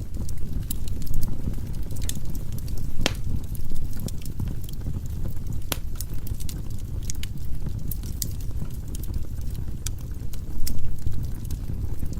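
Firewood burning in a fireplace: a steady low rumble of flame with scattered sharp crackles and pops, the loudest about three seconds in and again near six seconds.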